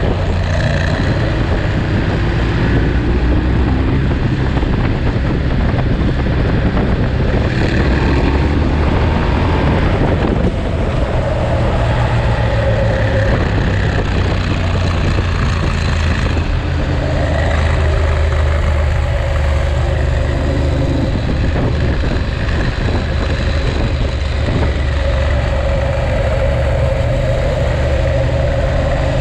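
Ducati Monster's V-twin engine running while the bike is ridden downhill. The engine note changes twice, about ten and sixteen seconds in.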